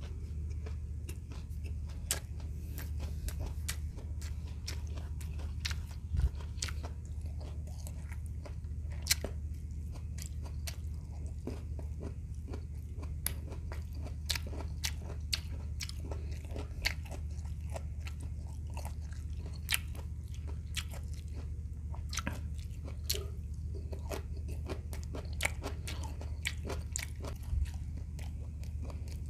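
Close-mic chewing and crunching of crispy fried shrimp, shells on, with sharp crackly clicks scattered throughout over a steady low hum.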